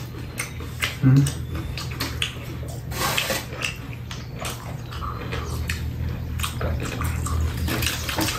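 Close-up chewing and crunching of fried chicken: a run of quick crackles and clicks over a steady low hum, with a brief low hum-like voice sound about a second in.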